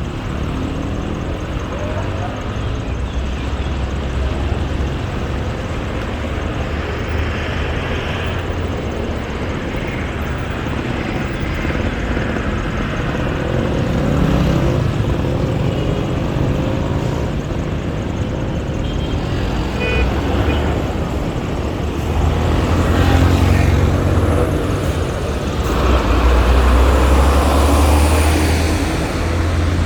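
City street traffic: a steady background of cars and other vehicles, with louder ones passing close twice near the end. Faint voices of passers-by mix in.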